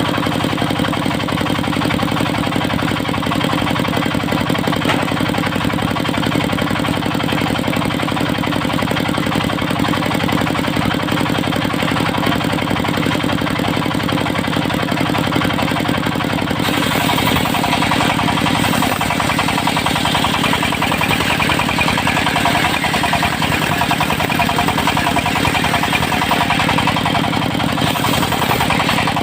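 Engine of a portable circular sawmill running steadily with a fast, even pulse. About two-thirds of the way through, a harsher hissing rasp joins it, typical of the saw blade working through the teak.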